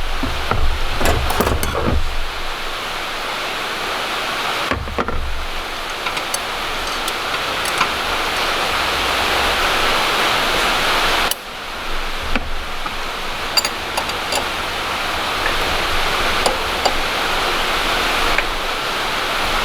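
Steady hiss of heavy rain falling, with a few faint sharp clicks.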